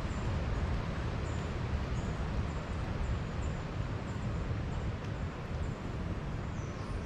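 Wind buffeting the microphone: a steady, rumbling low rush with a few faint high chirps over it.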